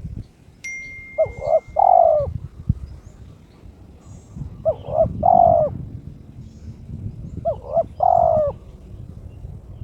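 Spotted dove (terkukur) cooing: three phrases about three seconds apart, each two short notes followed by a longer drawn note. It is a male in breeding condition calling to challenge a rival.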